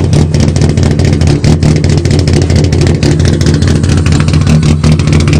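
Naturally aspirated Nissan S13 Silvia with high-lift cams and a side-exit exhaust, its engine idling loud and steady with an uneven, choppy beat, the lumpy idle typical of a high-lift cam.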